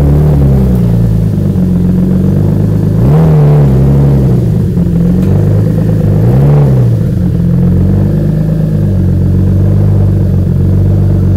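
Turbocharged BMW E36 engine idling through its exhaust, given three short throttle blips: at the start, about three seconds in and about six and a half seconds in, each rising and falling back to idle.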